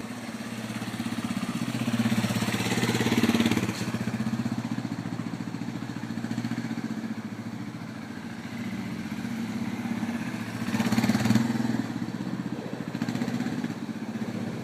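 Motorcycle engine running at low speed as it is ridden in slow circles, with a steady low hum that gets louder twice, once about two to three seconds in and again around eleven seconds.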